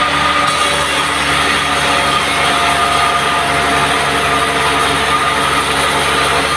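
Band sawmill sawing a teak log: a loud, steady machine drone carrying several steady tones over a dense hiss. About half a second in, the high hiss brightens.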